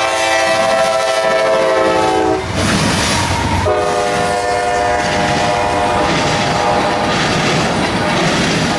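Freight locomotive horn sounding two long blasts: the first breaks off about two and a half seconds in, and the second starts about a second later and fades out near the end. Under both runs the steady rumble and clatter of a train rolling past.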